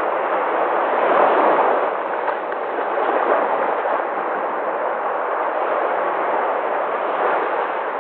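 Sea waves washing in a continuous rush of surf, swelling slightly about a second in and again near the end.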